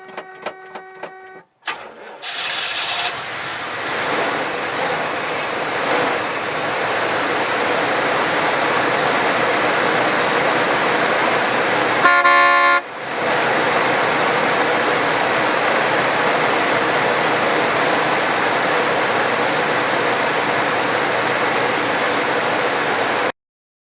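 A 1975 Oldsmobile 455 Rocket V8 starting cold about two seconds in, after years of sitting, then running loud and steady. The car horn honks once, briefly, about halfway through.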